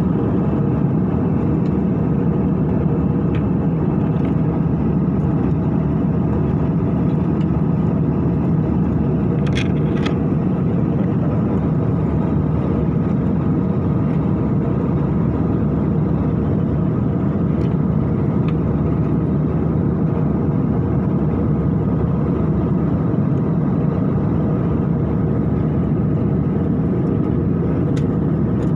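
Steady airliner cabin noise in flight: the even rush of the engines and airflow heard from a passenger seat. Two faint clicks come about ten seconds in.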